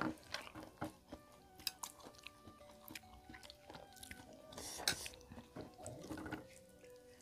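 Close-miked eating: mouths chewing rice and salted fish, with scattered small wet smacks and clicks throughout and a louder cluster of them near the middle.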